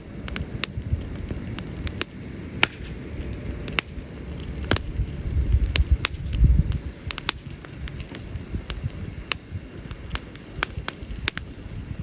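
Wood burning in a campfire, crackling with irregular sharp pops, over a low rumble that swells about halfway through.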